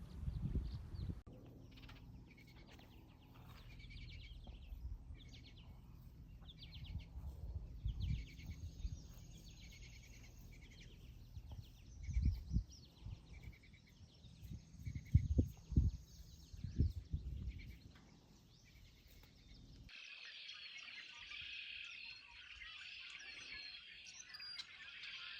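Small birds calling and chirping in repeated short phrases over a low steady hum, with a few dull thumps. About twenty seconds in the hum drops out and a denser chorus of many birds singing at once takes over.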